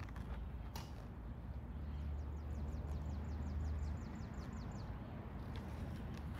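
Open-air ambience with a low rumble, and a small bird's rapid trill of short, falling high notes, about eight a second, starting about two seconds in and lasting under two seconds. A single sharp click sounds near the start.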